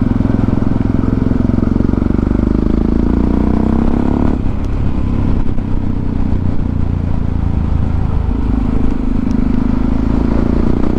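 Motorcycle engine running under way, heard from the rider's position. Its revs climb for a couple of seconds, drop suddenly about four seconds in as it shifts up, then pull on steadily.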